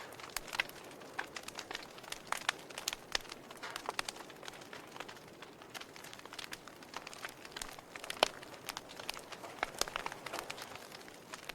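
Wood fire crackling in a fireplace: irregular pops and snaps from the burning logs over a soft hiss, with one sharper pop about eight seconds in.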